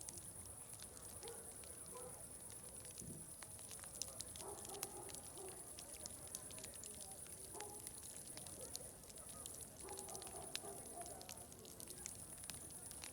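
Wood fire crackling with many small, irregular pops, over faint distant crowd chatter and a steady high-pitched hiss.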